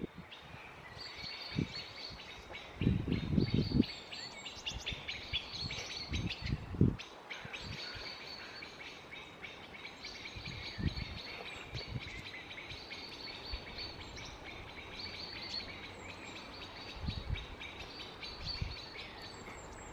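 A small songbird singing outdoors: repeated high, fast, twittering phrases of about two to three seconds each, with short pauses between. A few dull low thuds are heard along with it.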